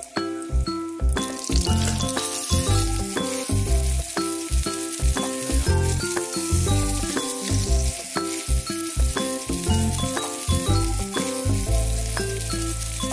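Oil sizzling in a frying pan as flour-coated, meat-stuffed eggplant rings pan-fry until golden brown; the hiss swells about a second in and runs on steadily.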